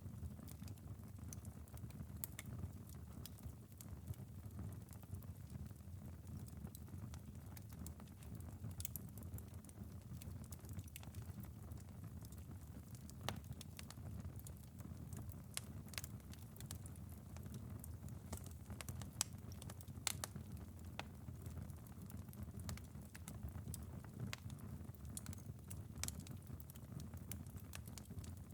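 Wood fire crackling in a fireplace, with sharp, irregular pops over a low, steady rumble, and a light patter of rain on a window.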